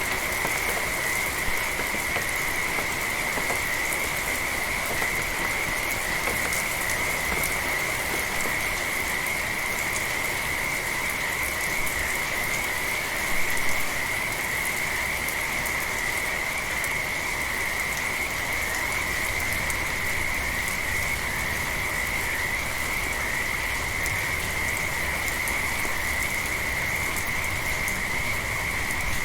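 Frogs calling in a steady, unbroken high-pitched chorus over light rain falling, with one brief louder sound about halfway through.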